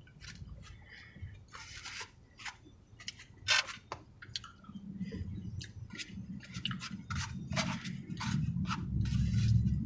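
Close-miked chewing and eating of Mexican food: crunching, wet mouth clicks and smacks, with a low drone coming in about halfway through.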